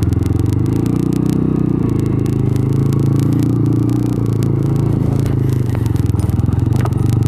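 Small motorcycle engine running steadily under way, close to the microphone, its pitch shifting slightly as the throttle changes, with low wind rumble.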